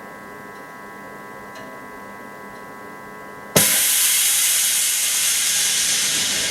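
A faint steady hum with a few thin held tones, then a sudden loud hiss of air about three and a half seconds in that slowly fades.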